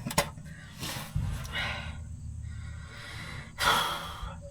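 A man breathing hard and blowing out sharply while straining at a stubborn repair, the loudest exhale near the end. A sharp metal click sounds just after the start.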